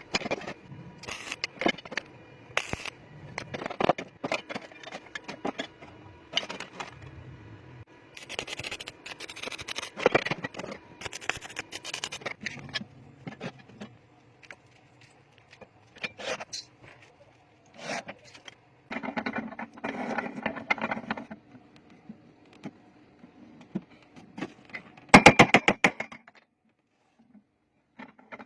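Metal parts and tools clinking, knocking and scraping in irregular handling, with a quick rattle about three quarters of the way through.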